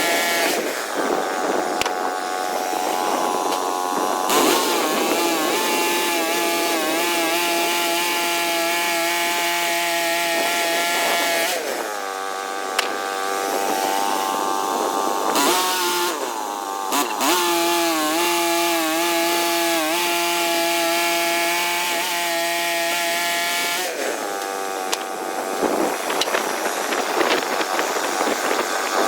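Small sawmill running and sawing: a steady engine sound, with the pitch dipping and changing briefly a few times.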